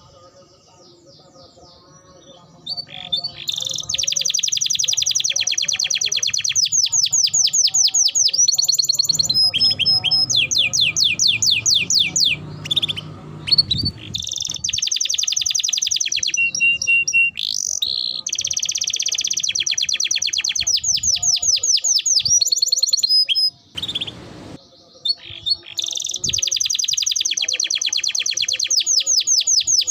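Domestic canary singing long, rapid trills and rolls of high repeated notes, broken by short pauses, after a quiet first few seconds.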